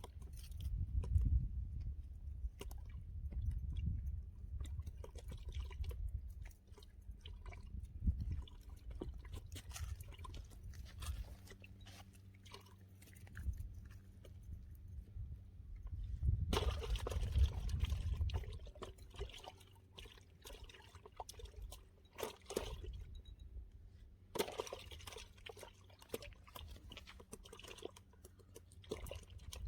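Water sloshing and splashing, with small clicks and knocks of handling and a low rumble underneath; the splashing gets louder twice, for a couple of seconds about halfway through and again near the end.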